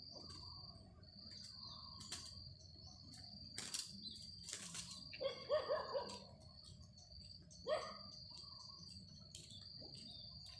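Spotted doves: a couple of wing-flap strokes about four seconds in, then short, low, pitched cooing notes, three in quick succession and one more a couple of seconds later. A steady high insect trill runs underneath.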